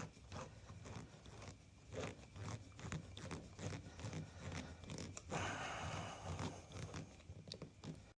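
Scattered light clicks and scrapes of hand tools and parts being handled on a workbench, with a short rustling noise about five seconds in that lasts just over a second.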